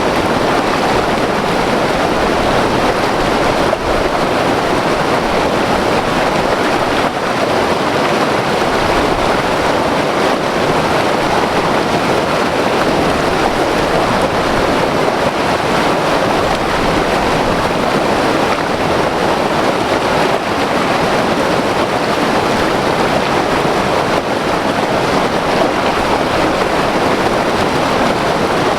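Himalayan white-water river rushing over rocks: a steady, loud roar that does not change.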